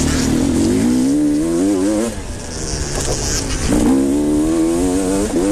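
Motocross motorcycle engine accelerating, its pitch climbing in steps as it shifts up through the gears. It backs off about two seconds in, then accelerates again.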